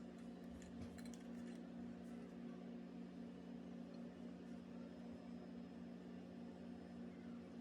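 A steady low hum, like a running appliance or fan, with a few faint ticks about a second in.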